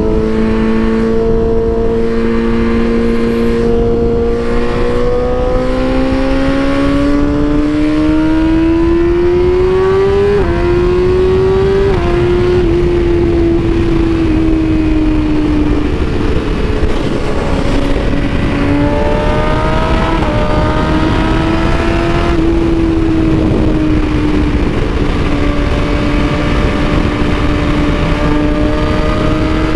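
BMW S1000RR's inline-four engine pulling under load, its pitch rising steadily, then dropping in quick steps at upshifts about a third of the way in, before settling to a steady cruise with small rises and falls of throttle. Constant wind noise rushes over the microphone.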